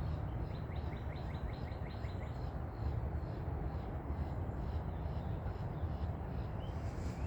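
Small birds chirping: a quick run of short, repeated high chirps in the first couple of seconds, then scattered fainter chirps, over a steady low background rumble.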